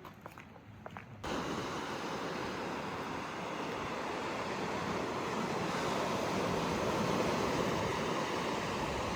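Ocean surf washing onto a beach, a steady roar of waves that starts abruptly about a second in, after a quieter moment with a few faint clicks.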